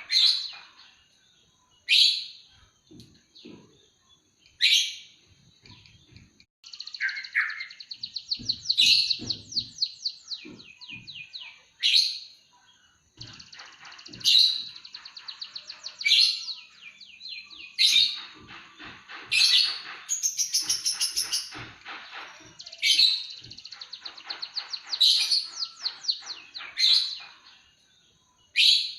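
Songbird singing a canary-style song: fast rattling trills and sharp high chirps, recurring every couple of seconds, with a thin steady high note running under parts of it.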